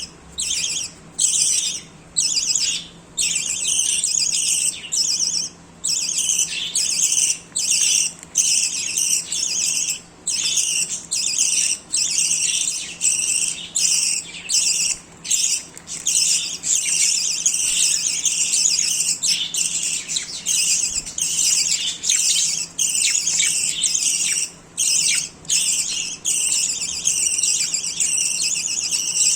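Pet budgerigars chattering and warbling almost without pause, a dense high-pitched twittering broken by brief gaps. A faint steady low hum runs underneath.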